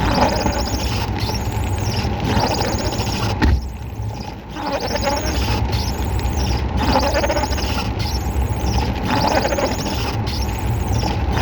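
Strong storm wind rumbling and buffeting against the microphone, with a high squeal that rises and falls about every two seconds.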